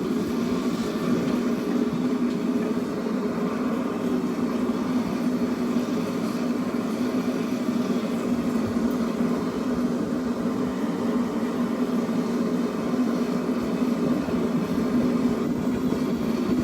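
Forge running with a steady rushing noise, with no hammer blows.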